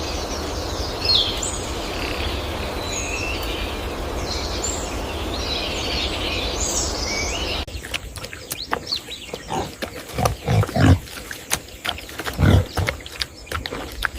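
Steady outdoor noise with high bird chirps. After a sudden cut about halfway through, a pig grunts and snorts in short, loud, low bursts, with clicks and rustles between them.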